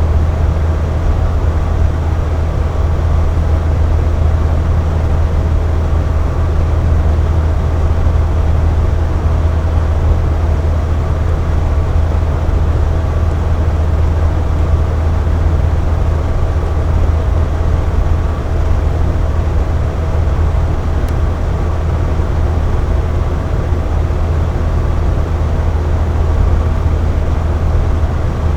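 Air conditioner running steadily: a constant low hum and whoosh, with a faint steady whine above it.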